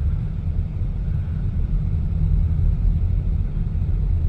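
Steady low rumble of a car driving slowly, the engine and tyre noise heard from inside the cabin.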